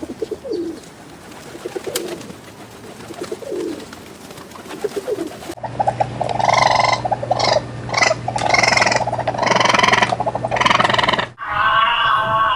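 Birds calling: soft, short low calls at first, then from about five and a half seconds in a louder run of pulsing calls over a steady low hum, changing to a different set of calls near the end.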